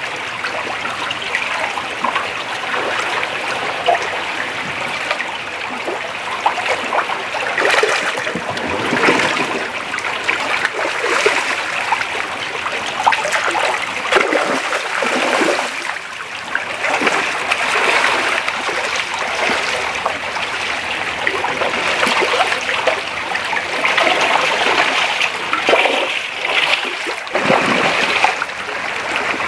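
Shallow creek water running steadily over rocks, with irregular splashes through much of it, typical of spawning salmon thrashing in the shallows.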